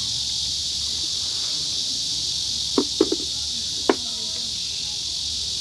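A steady high-pitched insect drone runs throughout. A few short sharp knocks come a little past the middle: three close together, then one more about a second later.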